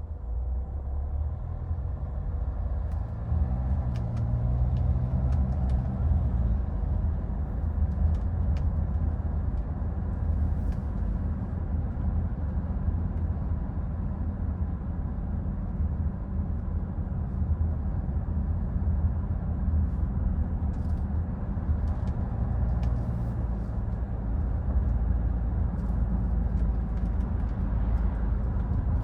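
2014 Hyundai Santa Fe driving in city traffic: the engine pulls up through the revs in the first few seconds, then settles into a steady low road rumble with occasional light clicks.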